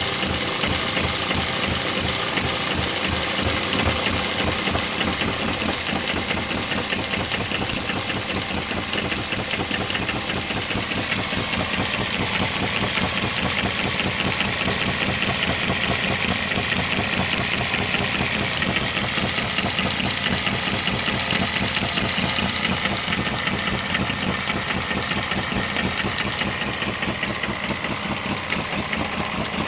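Model engine running under load against a Baker fan: a steady, rapid, even mechanical beat with the fan blades' rushing air over it.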